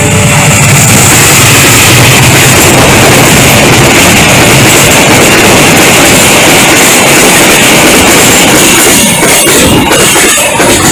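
Container freight train passing close by at speed: a loud, steady rush of wheels and wagons on the rails.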